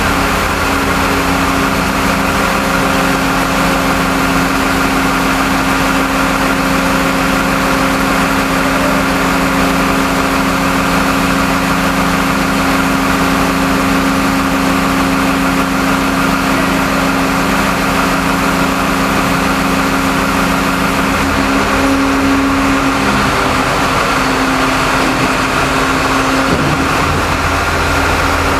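Rail tunnel-cleaning train's machinery running steadily: a constant engine hum with a hiss over it. The low hum shifts in pitch about three-quarters of the way through, and again near the end.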